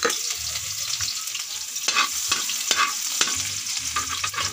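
Chopped onion sizzling in hot oil in a metal wok, with a steady frying hiss, while a spatula stirs it, scraping and clacking against the pan several times.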